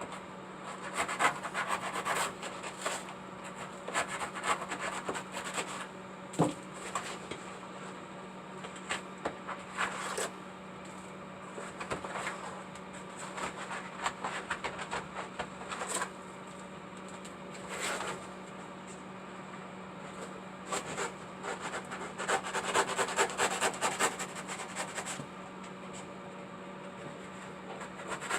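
Hand scraping and rubbing strokes in irregular spurts, over a steady low hum.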